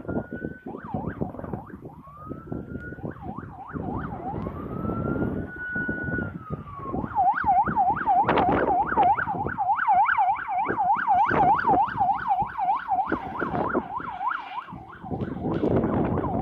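Emergency-vehicle siren passing, most likely a responding police car: a slow rising and falling wail for the first several seconds, then switching about halfway through to a fast yelp of about four sweeps a second before fading near the end, over rumbling traffic or wind noise.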